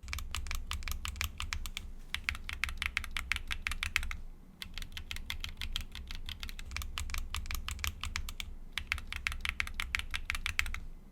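Fast typing on a Keychron Q1 Knob mechanical keyboard in three runs, broken by two short pauses. Each run is on a different tactile switch: Moondrop Tessence, MMD Princess, then MMD Honey.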